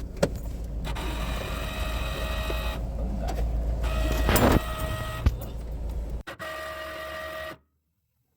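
Electric power tool running on container steel with a steady motor whine and hum. There is a short hissing burst about four seconds in, and the sound drops out abruptly near the end.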